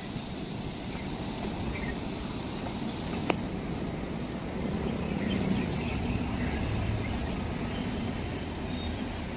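Steady low rumble of a running train, with a faint high hiss that stops at a single sharp click about a third of the way in.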